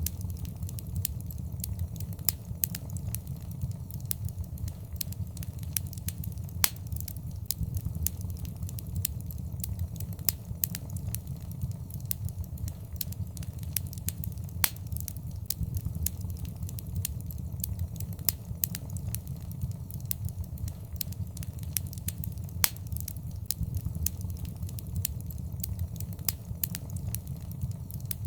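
Wood fire in a fireplace crackling: frequent sharp snaps and pops, a few of them louder, over a steady low rumble of the flames.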